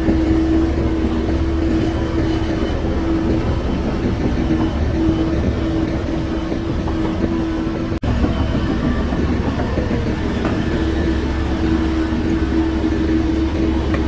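Shantui crawler bulldozer's diesel engine running steadily under load: a deep rumble with a steady whine over it. It cuts out for an instant about eight seconds in.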